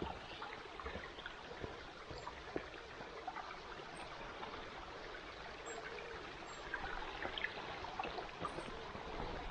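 A small stream running: a steady, even rush of flowing water, with a few faint scattered clicks over it.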